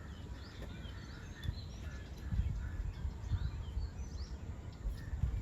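Many small birds chirping in quick, short calls, over a low steady rumble.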